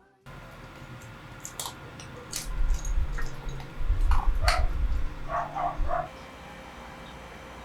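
Small dog barking and yipping in short bursts, three quick ones near the end, over a low rumbling noise.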